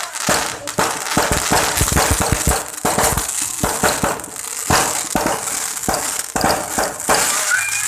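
Fireworks and firecrackers going off in a dense, unbroken run of sharp cracks and bangs, many each second.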